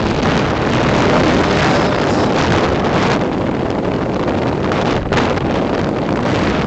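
Loud wind rushing over the microphone of a land yacht sailing fast, with the noise of the craft running over the ground underneath. The rush dips briefly about five seconds in.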